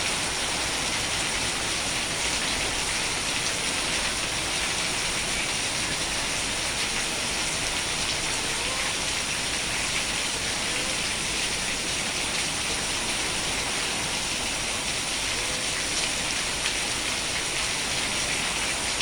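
Steady rain falling, a dense even hiss of countless small drop ticks that holds without a break.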